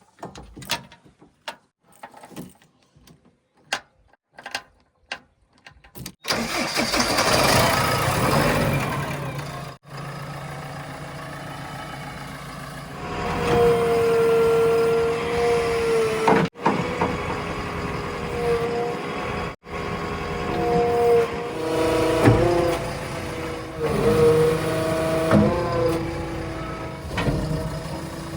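A few faint clicks, then a heavy vehicle's diesel engine comes in loud about six seconds in and keeps running, its pitch rising and falling as it works.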